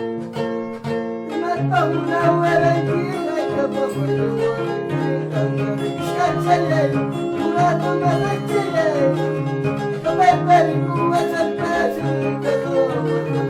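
Peruvian harp played, plucked bass notes and chords in a steady rhythm. A second, wavering melody line joins above it about a second and a half in.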